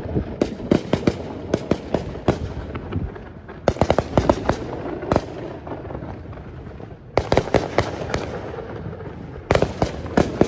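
Fireworks going off in volleys of rapid, sharp cracks: a string of bangs at the start, then further bursts about four, seven and nine and a half seconds in, with a rumbling background between them.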